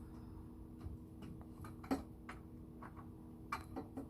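Scattered light clicks and taps at an uneven pace, the loudest about halfway through, over a faint steady hum.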